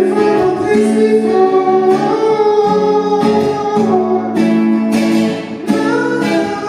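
Strummed guitar chords ringing in a live song's closing bars, with several sharp strum strokes in the second half.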